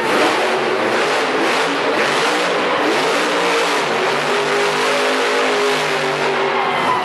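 Monster truck engine revving hard, its pitch rising and falling, then holding fairly steady in the second half.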